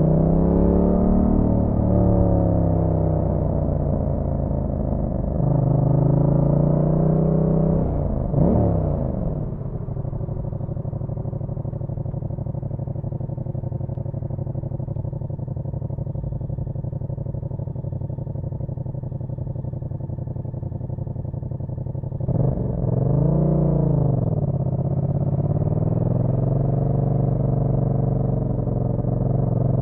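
Yamaha MT-07's parallel-twin engine under way, its pitch rising and falling with the throttle. About eight seconds in it gives a quick rev that drops away sharply, then settles to a steady, quieter note for about twelve seconds. Near the end the revs climb and fall again as it pulls away.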